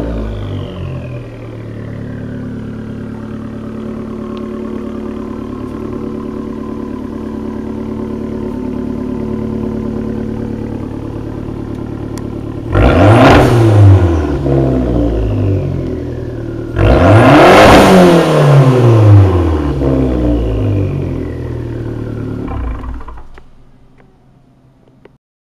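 Fiat 500 Abarth's turbocharged 1.4-litre four-cylinder idling through an aftermarket exhaust, revved hard twice about halfway through. Each rev rises quickly and falls back to idle. The sound fades out near the end.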